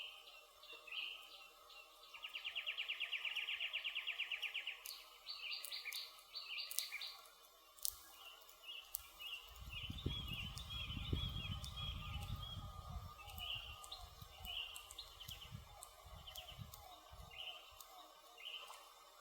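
Birds singing in woodland, with a fast, loud trill about two seconds in and repeated short chirps throughout. A wood fire crackles with scattered sharp pops, and a low rumble swells for a few seconds midway.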